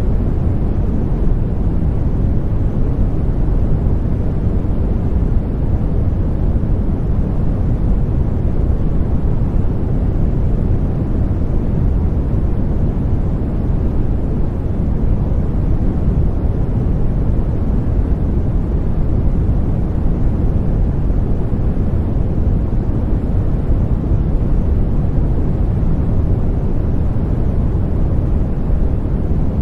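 Continuous sleep-aid noise, sold as white noise for babies: a steady, deep hiss with most of its weight in the bass, unchanging throughout.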